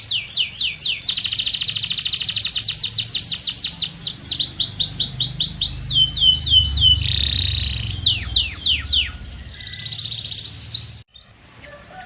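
Canary singing: a loud song of trills built from rapidly repeated falling notes, some slow, some very fast, with a buzzy rolling stretch. The song breaks off abruptly near the end.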